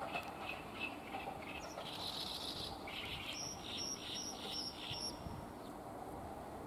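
A small bird singing: a string of short high chirps, then a run of five quick repeated notes in the second half.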